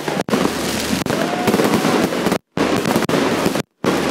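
Fireworks display going off, a dense run of crackling pops and bangs. The sound cuts out completely twice for a moment in the second half.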